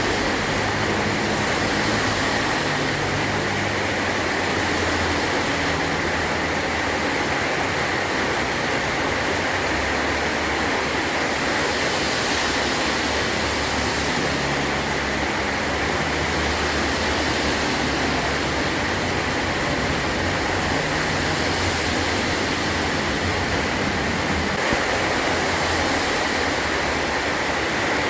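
Heavy rain drumming steadily on a metal roof, a dense even hiss.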